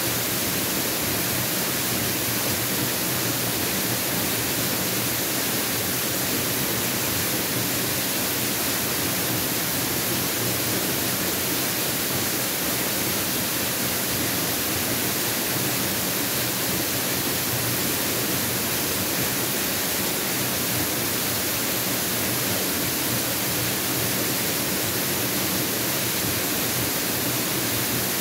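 Waterfall pouring steadily, a constant rushing hiss of falling water with no breaks or changes.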